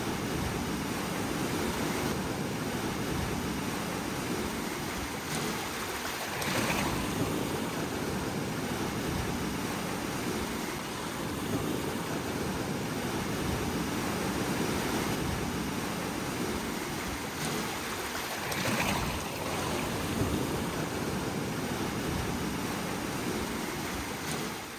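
Gale-force wind of about 30 knots rushing steadily, with water noise, swelling in stronger gusts about six seconds in and again near nineteen seconds, then cutting off suddenly at the end.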